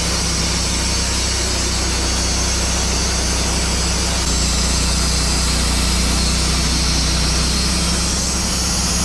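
Sawmill engine running steadily under load as the blade cuts through a log, with a high hissing from the cut over a low engine hum; it gets a little louder about halfway through.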